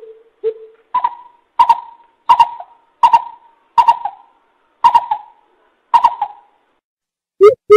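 Coucal (bubut) hooting: two low hoots, then a series of about eight higher hoots at an even pace, and near the end a fast run of low hoots begins.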